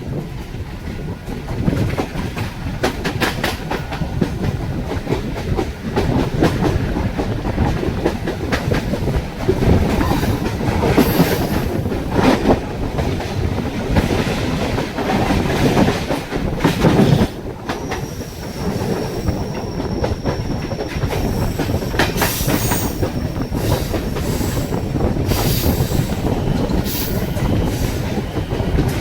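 Mumbai suburban local train (an electric multiple unit) running along the track, its wheels clattering over rail joints. A thin high squeal comes in for a few seconds past the middle.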